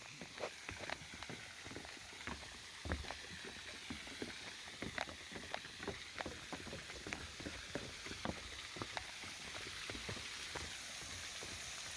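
Waterfall spray: a steady rush of falling water, with many irregular sharp taps of drops striking close to the microphone.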